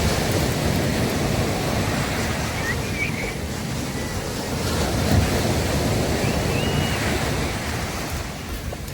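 Sea waves breaking and washing up on a beach in a steady, swelling surf, with wind buffeting the microphone. A few faint, short high chirps sound about three and seven seconds in.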